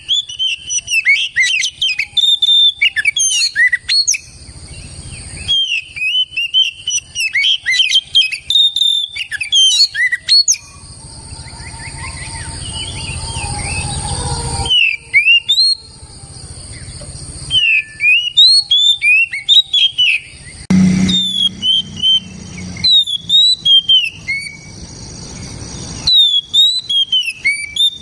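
Oriental magpie-robin (kacer) singing loudly: phrases of rapid, varied whistled notes that glide up and down, separated by short pauses of a second or two.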